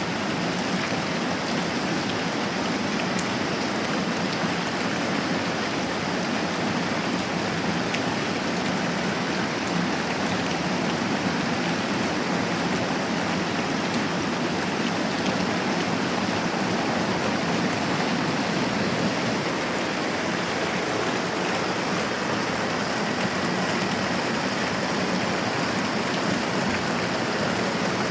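Moderate rain falling steadily: an even, continuous hiss with no breaks.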